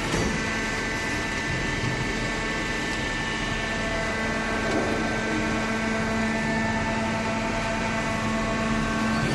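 Cardboard shredding machinery running steadily, a constant motor hum over an even mechanical noise.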